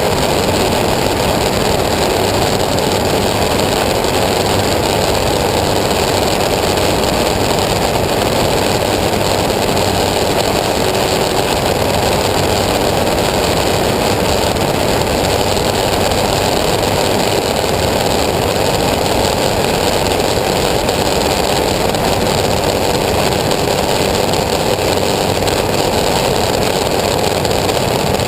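An engine running steadily at a constant level, with no change in speed.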